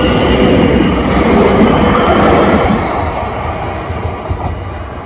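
Transilien electric multiple unit passing close by, wheels running on the rails. It is loud for about three seconds, then fades as the train moves away.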